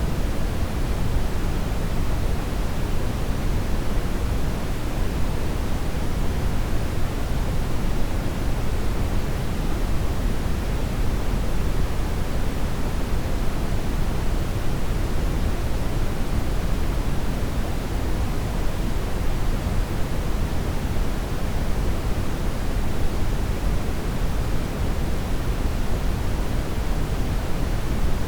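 Steady brown noise: an even, unbroken rushing hiss that is deepest and strongest in the low end and fades off toward the treble.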